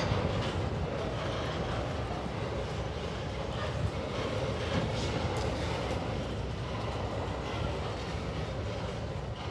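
Empty pulp freight train rolling past with a steady rumble of wheels on rail and occasional faint clicks.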